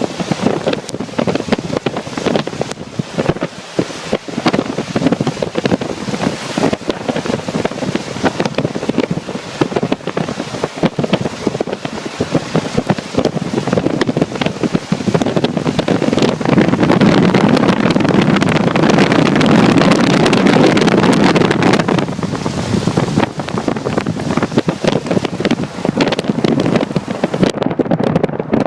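Strong wind buffeting the microphone: a loud, continuous rushing noise full of rapid gusty crackle. It swells louder and deeper for several seconds around the middle.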